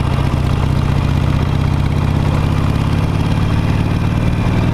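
Harley-Davidson Nightster's Revolution Max 975T V-twin engine running steadily at low revs, close to idle.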